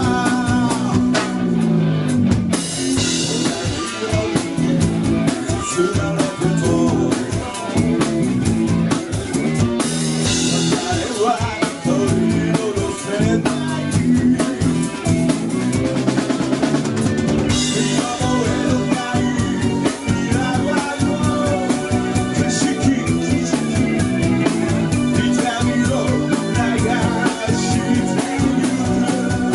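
Rock band playing live in an instrumental passage: drum kit with snare and bass drum driving a steady beat under electric guitar and bass, with cymbal crashes a few times.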